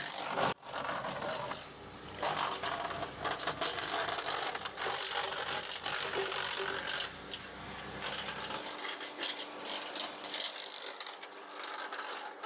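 Wallenstein wood chipper pulling in a branch and chipping it, a steady run of rattling, crackling crunches from the knives. It has been running again since old gas was cleared from its fuel tank.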